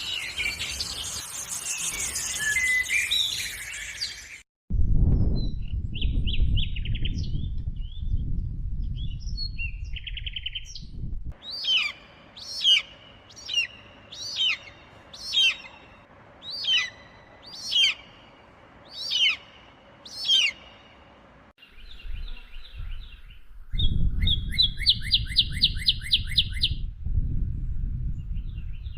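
Birds calling in a string of short clips that cut abruptly from one to the next: about ten sharp falling calls roughly one a second in the middle, a fast trill near the end, and other scattered chirps, with a low rumble under some of the clips.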